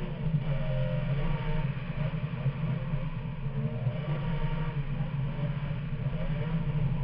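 Race car engine heard onboard while lapping a circuit, its revs rising and falling through the corners over a constant low drone.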